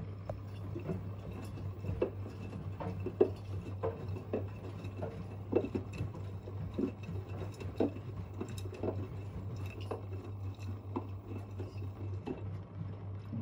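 Front-loading washing machines running an easy-care wash: a steady low hum under irregular soft splashes and knocks, about one or two a second, of wet laundry moving in the drum.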